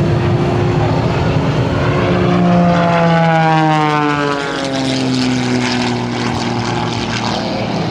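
Propeller aerobatic planes, an Extra 300 and an MX2, flying past with the engine and propeller drone falling in pitch about halfway through as they go by.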